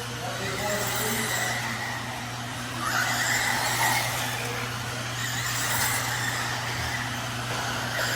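Electric Losi 22S RC sprint cars racing on a dirt oval, with a high motor whine and tyre hiss that swell and fade as the pack passes, over a steady low hum.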